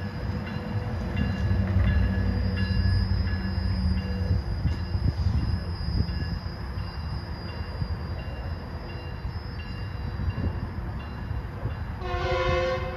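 A Metrolink train's diesel locomotive running in the distance with a steady low rumble. Near the end comes one short horn blast, about a second long.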